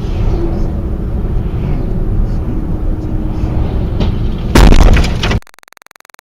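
Car interior dashcam audio with a steady low road and engine rumble, then a sudden loud crash impact with cracking about four and a half seconds in, lasting under a second before the sound cuts off abruptly.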